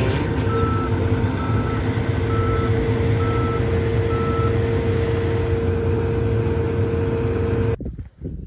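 A large vehicle's engine runs with a steady low rumble while its backup alarm beeps five times, about once a second, in the first half: the machine is reversing. The sound cuts off abruptly near the end.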